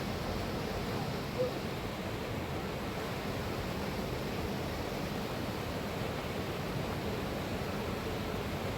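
Steady rush of a fast-flowing mountain river, with one short faint blip about a second and a half in.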